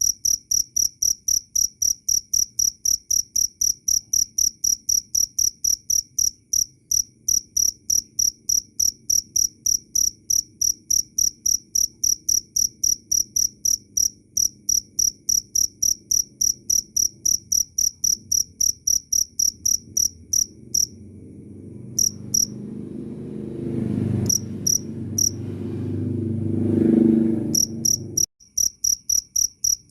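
Cricket chirping loudly and clearly in an even, steady rhythm of about three high chirps a second. Near the end the chirps mostly stop while a low rumble swells, then cuts off abruptly, and the chirping resumes.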